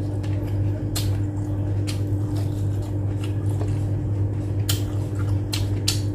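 Close wet chewing and lip-smacking of a person eating rice and grilled chicken by hand, with several sharp smacks, over a steady low hum.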